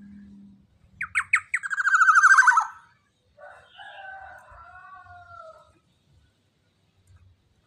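Young black-naped oriole (kepodang) calling: three quick sharp falling notes, then a loud, rapid rattling call sliding downward for about a second. Softer wavering whistled notes follow.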